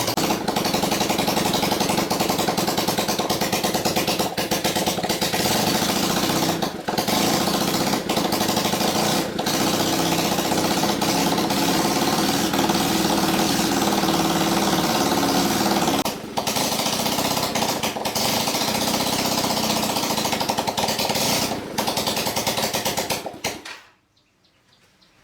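Restored old motorcycle's engine running steadily with a fast, even beat; its pitch shifts about two-thirds of the way through, and it cuts off abruptly near the end.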